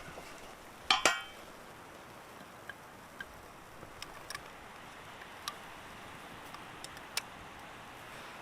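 A sharp double clink with a brief ring about a second in, then a few scattered light ticks, like small hard objects being handled.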